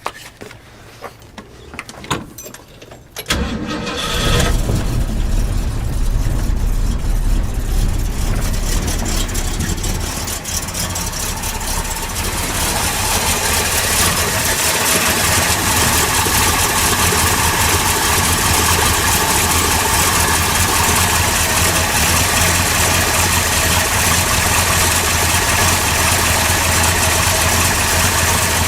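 1978 Ford Bronco V8 cold-starting after sitting for a couple of months: after a few clicks the engine catches suddenly about three seconds in and keeps running steadily, a little louder from about twelve seconds in.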